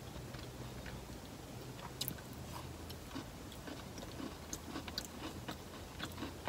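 A person chewing food close to the microphone: faint mouth sounds with a few soft, scattered clicks.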